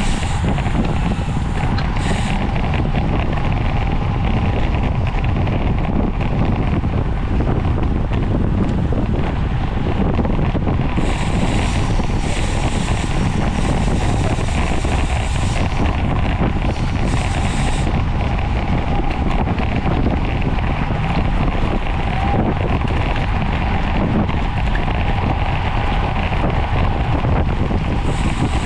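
Steady, loud wind rush on the microphone of a camera moving at racing speed on a bicycle.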